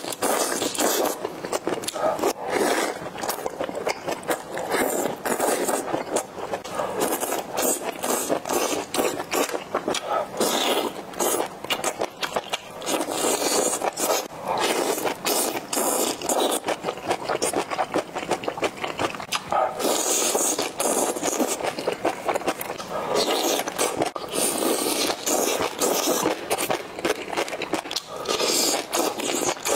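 Close-miked eating sounds of chili-oil-soaked skewered food (bo bo ji): wet chewing and smacking with many small clicks, and a few louder, hissier bursts from sucking the food off the skewers.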